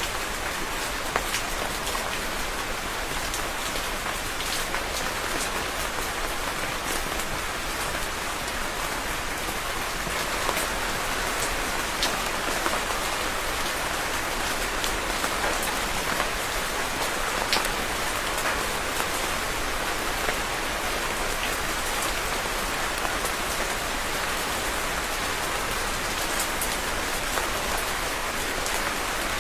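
Steady rain falling on a surface, a continuous hiss with scattered drop ticks.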